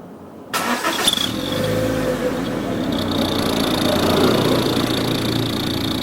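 Honda Brio RS engine starting about half a second in and then running steadily, heard at the tailpipe fitted with a clip-on turbo whistle. A steady high whistle tone joins from about three seconds in.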